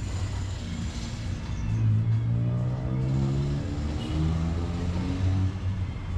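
A motor vehicle's engine running close by, its hum growing louder about two seconds in and shifting pitch a few times as it goes.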